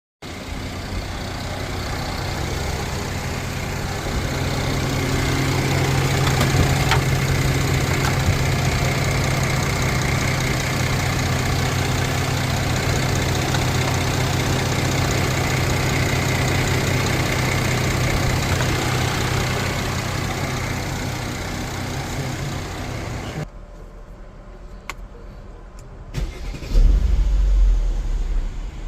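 Mercedes-Benz M276 V6 engine running steadily, then cutting off suddenly about 23 seconds in. A short, deep rumble follows near the end.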